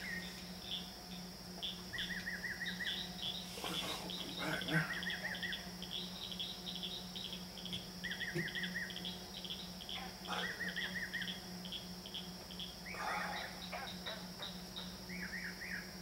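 A single bird singing loudly and tirelessly, repeating a fast, warbling trilled phrase every two to three seconds, mixed with a few other, lower call types. Insects chirp steadily behind it.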